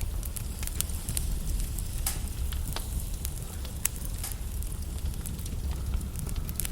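Log fire in a fireplace crackling, with frequent irregular sharp pops over a low, steady rumble of the flames.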